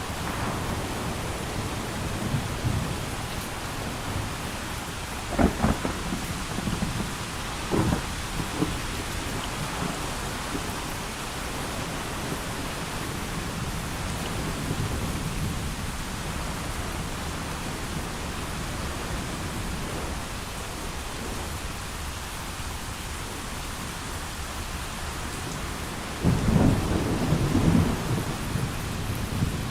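Heavy rain falling steadily, with thunder: two sharp cracks about five and eight seconds in, and a longer, louder rumble near the end.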